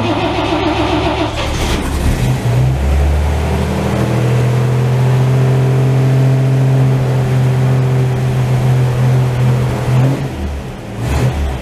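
1949 Chevrolet truck's straight-six being cold-started on the choke after sitting three weeks: the starter cranks for about a second and a half, the engine catches about two seconds in and revs up, then settles into a steady fast idle. Near the end the engine note dips briefly and comes back.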